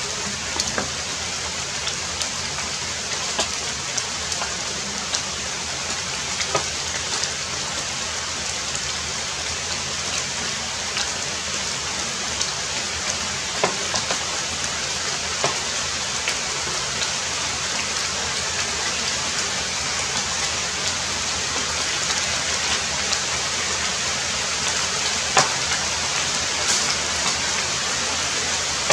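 Heavy rain falling steadily, with scattered sharper drop impacts standing out now and then.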